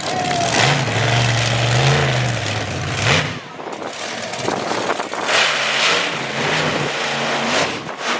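Monster truck engine revving hard, its pitch swelling and falling, then climbing sharply and cutting off about three seconds in. A few seconds later it revs again in shorter rises.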